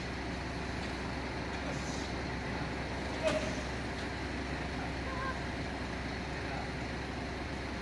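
Steady low rumble of a vehicle engine running, with faint distant voices and one brief click a little after three seconds.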